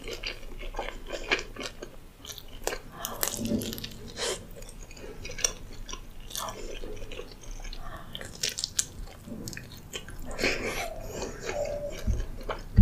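Close-miked chewing of a mouthful of meat-topped pizza, with many small wet mouth clicks and crackles.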